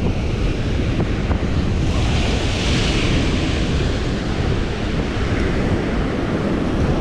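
Wind buffeting the microphone over sea surf, with a wave's hiss swelling up about two to three seconds in.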